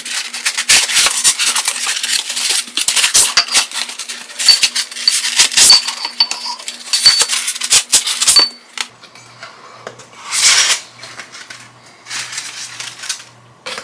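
Packing material crackling and rustling as ceramic desk vases are unwrapped, with light clinks of ceramic. The dense crackling stops about two-thirds of the way through, leaving a few brief rustles.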